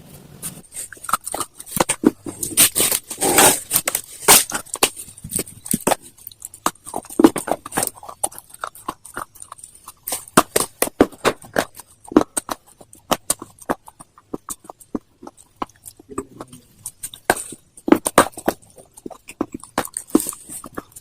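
Close-up crunching and chewing of something hard and brittle: a rapid, irregular run of sharp cracks, thinning out briefly near the middle.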